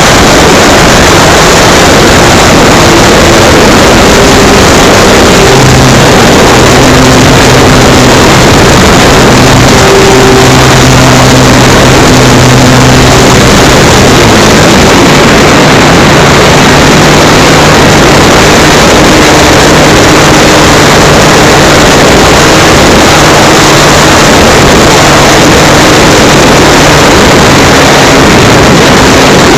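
Constant, very loud wind rush and propeller noise picked up by a camera riding on an electric RC model plane (FMS Cessna 182) in flight. A faint motor-and-propeller hum under the wind shifts pitch a few times as the throttle changes.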